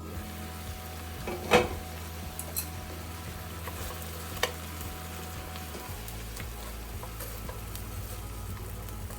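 Chicken wings sizzling in a pan as they are stirred, with a sharp clack of the utensil against the pan about a second and a half in and another, smaller one a few seconds later.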